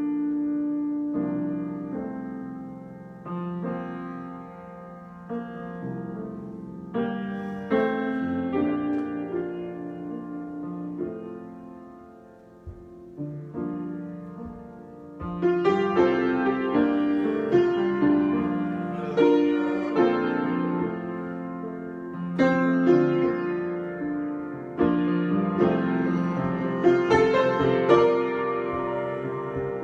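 Solo piano improvising: sparse single notes and chords, each left to ring and decay, turning to fuller, busier chords about halfway through.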